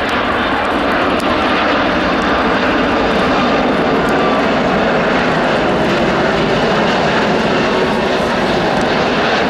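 Airbus Voyager (A330) jet airliner flying past, its two Rolls-Royce Trent turbofan engines giving a steady, loud rushing engine noise.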